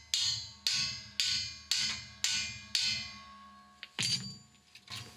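Sledgehammer striking the steel of a hydraulic shop press setup, about two ringing blows a second, six in a row, then a few lighter knocks. The blows are freeing a seized wheel bearing from its hub carrier, which 6 tons of press force alone could not move.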